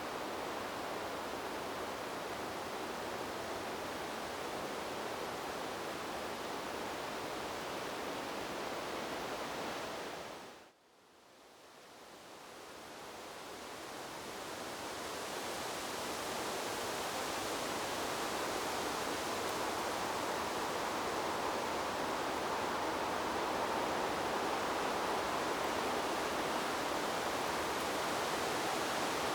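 Steady rushing noise of wind blowing through trees. About ten seconds in it fades quickly to almost nothing, then swells back over several seconds.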